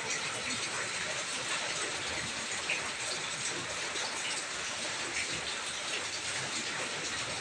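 Steady rain falling on a wet concrete patio and potted plants, an even patter of drops.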